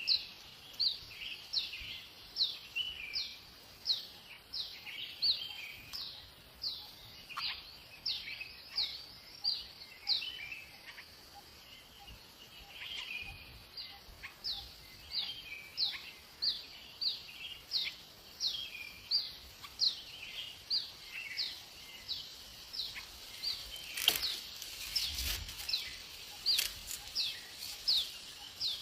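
A bird calling over and over in short, high notes that fall in pitch, about two a second, with a softer, lower twittering between them. There are a few sharp clicks near the end.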